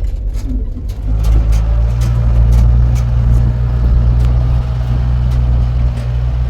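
Motor vehicle engine running steadily with a low hum, growing louder about a second in.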